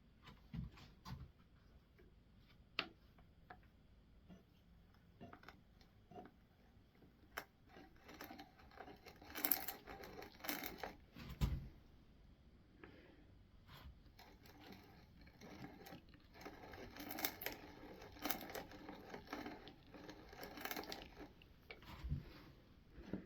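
Hand brace and bit boring into wood: a dry scraping, crunching cut in two longer spells, the first starting about eight seconds in and the second from about sixteen to twenty-one seconds, with scattered light knocks and clicks between.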